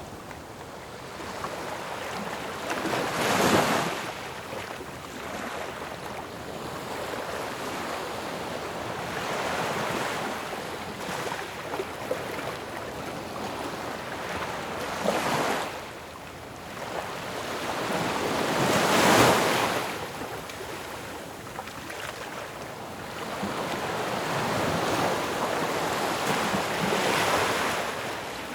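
Ocean waves crashing: the surf swells and breaks about four times, with the loudest breaks about three seconds in and again about nineteen seconds in.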